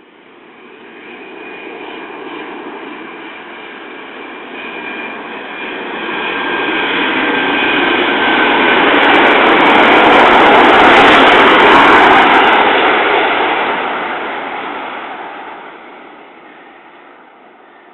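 Jet airliner passing low, its engine noise swelling to a loud peak about two-thirds of the way through and then fading. High steady turbine whines can be heard as it approaches.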